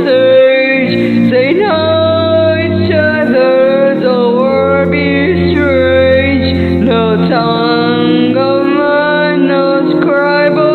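A song: a single voice singing long held notes that slide from one pitch to the next, over sustained low chords.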